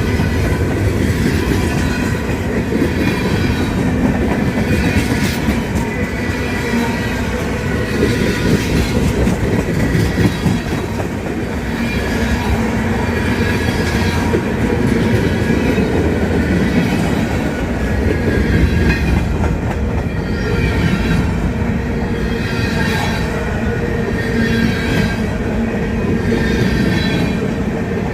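CSX freight train cars rolling past at steady speed, the wheels clacking over rail joints again and again, with a thin, steady wheel squeal over the rumble.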